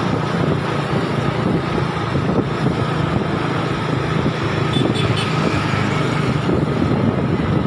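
Truck engine running steadily while driving: an even low drone with road noise, no change in pitch.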